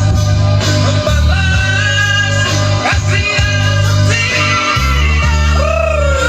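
A high male singing voice over backing music with a steady bass line, ending on a wavering, swooping held note.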